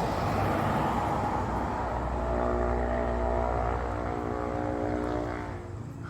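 A motor or engine running steadily with an even drone, fading near the end.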